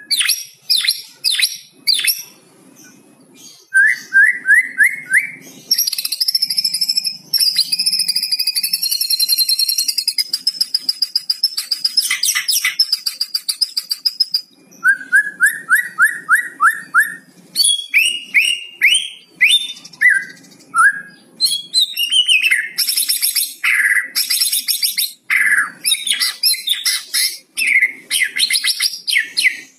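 White-rumped shama (murai batu) singing a loud, varied song: runs of fast repeated notes, long rattling 'kretekan' chatter, and whistled phrases, with hardly a pause.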